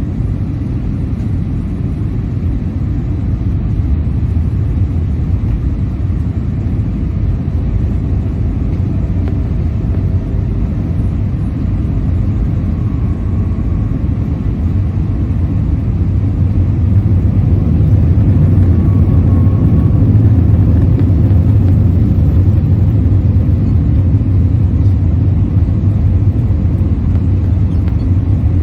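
Steady low rumble of an Airbus A320's engines and rushing air, heard from inside the cabin, growing somewhat louder past the middle.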